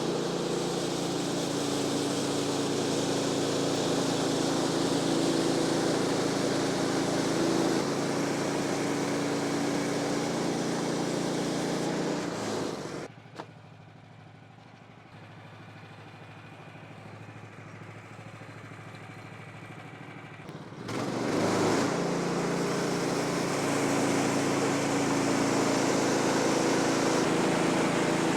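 Woodland Mills bandsaw sawmill's gasoline engine running steadily at high throttle for the first cut through a log. About 13 s in it drops abruptly to a much quieter stretch, and about 8 s later the loud steady running resumes.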